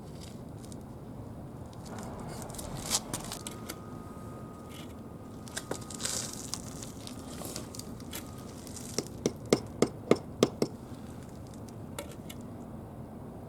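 Bricklaying sounds: a scrape of mortar, then a quick run of about seven sharp taps as a brick is knocked down into its bed of cement mortar.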